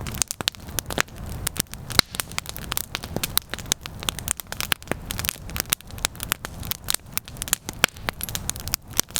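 Wood campfire crackling, with many sharp, irregular pops and snaps over a low rumble of gusting wind.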